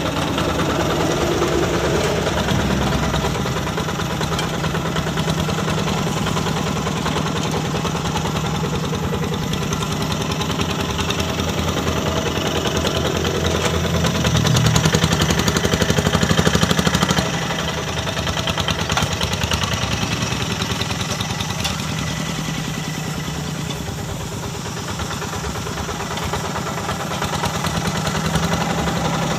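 Kubota diesel engine of a Quick G1000 Boxer two-wheel hand tractor running steadily while ploughing a rice paddy. It is louder for a few seconds about halfway through, then drops back suddenly.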